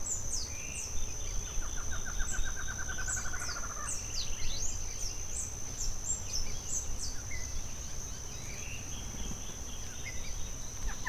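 Wild birds calling: many short, quick falling chirps, and a rapid trill of evenly spaced notes from about two to four seconds in, over a steady high-pitched drone.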